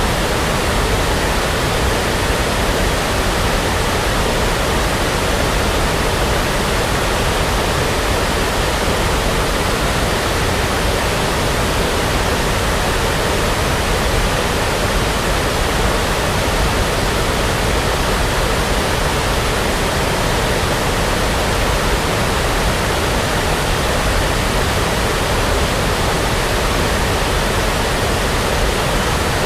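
Steady synthetic brown noise: a constant, even rushing hiss weighted toward the low end, with no changes or events.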